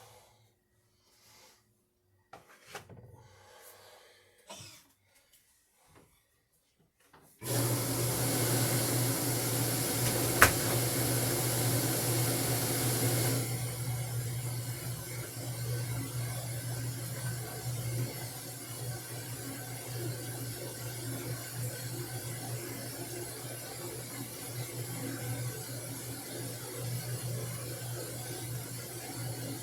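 Washing machine running: a steady low hum with a hiss over it, which starts abruptly about seven seconds in after a few faint knocks and eases a little after several seconds. A single sharp click about three seconds after the hum begins.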